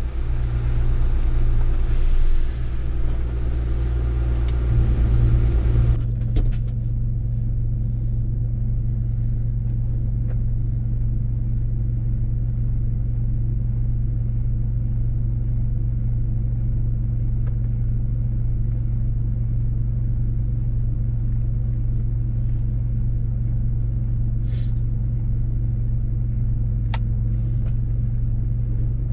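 Mercedes-Benz truck's diesel engine running steadily at cruise, a constant low drone with road rumble. About six seconds in the sound changes abruptly and becomes duller, losing its higher hiss.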